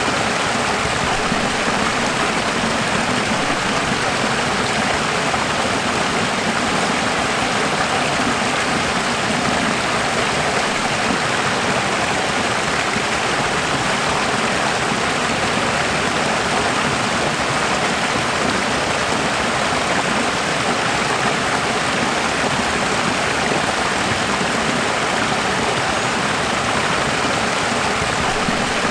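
Running water flowing steadily: a continuous, even rush with no changes and no music.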